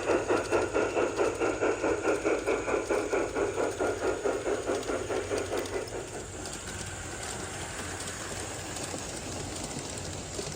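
Garden-scale model train running with a fast, even chuffing rhythm that fades out about six seconds in, leaving a steady background hiss.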